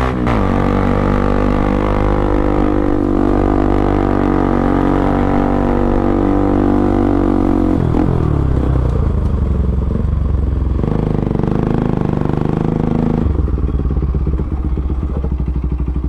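Bajaj Pulsar NS200's single-cylinder engine through an Akrapovic exhaust with the dB killer removed, running steadily under way. Its note drops about halfway through and changes pitch a few more times near the end.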